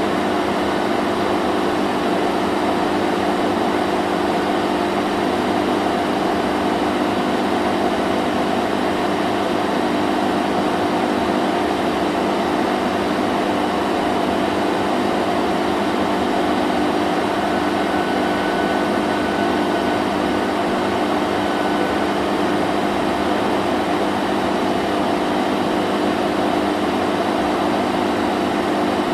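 Vacuum cleaner running steadily: an even whooshing motor noise with a constant low hum, unchanging throughout.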